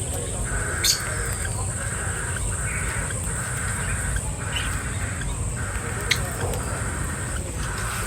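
Birds calling in a steady repeating pattern, each call about half a second to a second long, over a constant high hiss, with two sharp clicks.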